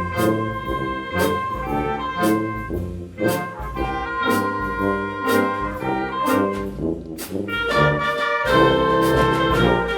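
High school band playing a piece in which brass, trumpets and trombones, carry held chords over regular sharp percussive hits.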